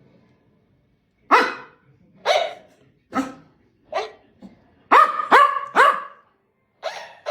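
A dog barking: single barks about a second apart, then three quick barks about five seconds in, and more near the end.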